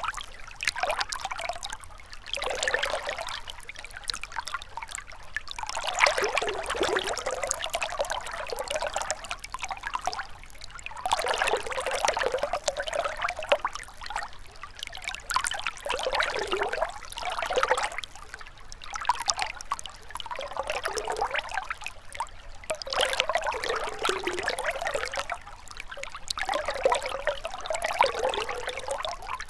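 Shallow river water babbling and trickling over stones, swelling and easing in gentle surges every second or two.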